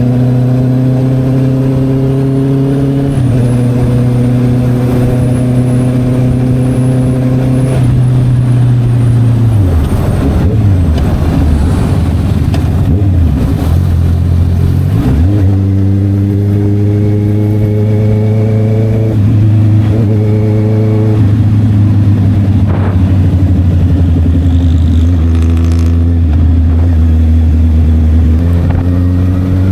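Honda CB650R's inline-four engine through an SC Project exhaust while riding, pulling steadily in gear with pitch steps at each gear change. The engine note drops away and wavers as the bike slows, then picks up and holds again, with more shifts later.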